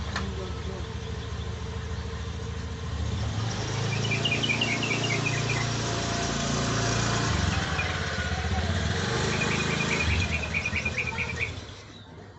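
A small engine runs loudly, swelling about three seconds in and fading out near the end. Over it, a yellow-vented bulbul gives two runs of quick, high chirps.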